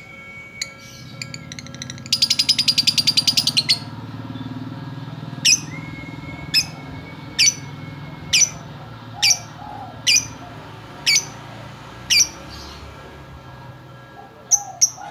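Female lovebird calling: a fast run of high, sharp chirps lasting under two seconds, then single sharp chirps about once a second, and another fast run starting near the end.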